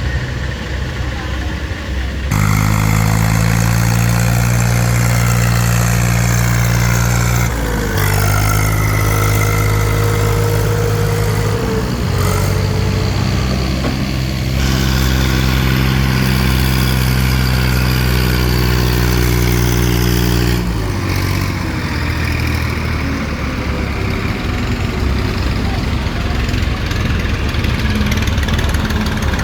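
Diesel tractor engine working hard under load, a steady low drone whose pitch shifts a few times, then drops back to a rougher, lower running about three quarters of the way through.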